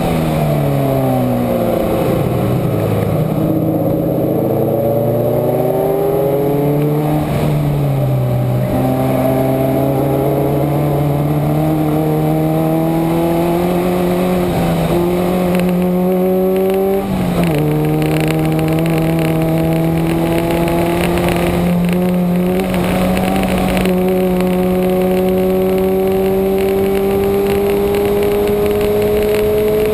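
Subaru flat-four engine working hard on a race track. Its pitch falls as the car slows in the first couple of seconds, then climbs slowly through long pulls, with a sudden drop about 17 seconds in from a gear change, over steady wind and tyre noise.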